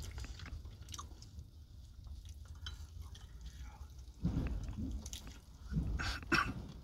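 Close-up eating sounds: wet chewing, smacking and biting into a cooked rib, louder about four seconds in and again near six seconds, over a steady low hum.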